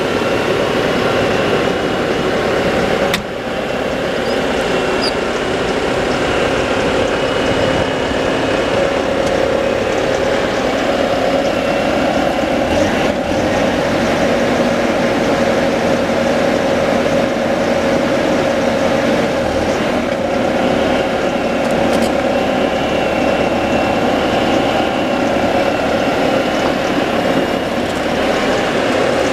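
Bobcat T740 tracked skid steer's diesel engine running steadily, with a sharp click about three seconds in.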